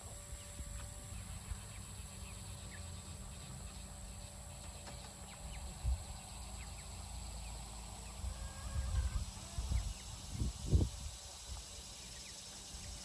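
Outdoor farmyard sounds: faint bird and chicken calls over a steady high insect-like hum and a low rumble, with a few dull thumps about halfway through and again near the end.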